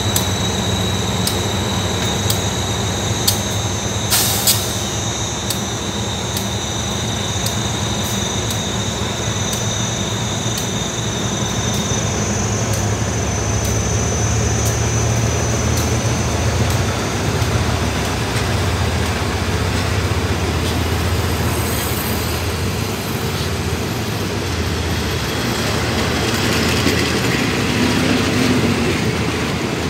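Diesel-electric locomotive running with a steady low engine hum as a passenger train rolls slowly past, then the coaches rolling by with wheels clicking over the rail joints. A high steady whine runs through the first part and fades out, and there is one sharp knock about four seconds in.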